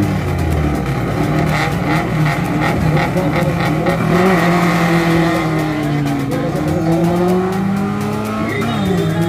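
Loud car engines revving, several at once, their pitch rising and falling.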